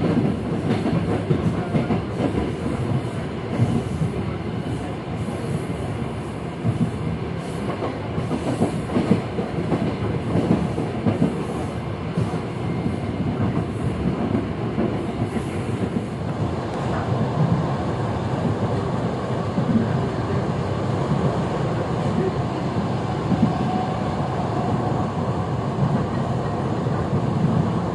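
Electric commuter train running, heard from inside the passenger car: a steady rumble with the wheels clattering on the rails.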